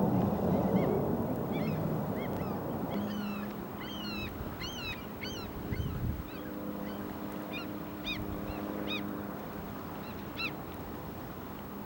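A flock of birds calling, many short calls overlapping and thickest about four to five seconds in, with a few more around eight to ten seconds. A low rumble underneath at the start fades away over the first few seconds.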